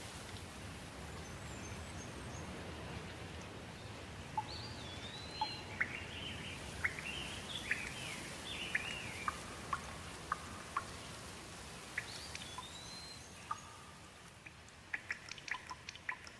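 Steady rain with birds singing over it: a run of chirps and whistled phrases from about four to thirteen seconds in, then a few sharp ticks near the end.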